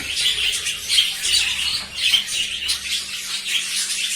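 A flock of budgerigars chattering and squawking in a colony aviary, many short overlapping calls at once.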